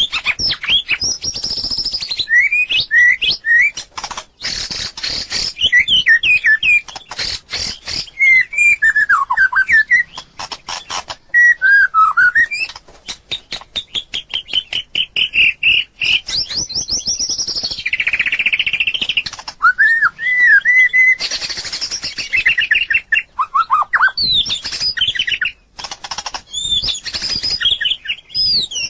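White-rumped shama singing: loud, varied whistled phrases that slide up and down in pitch, mixed with fast runs of sharp clicks.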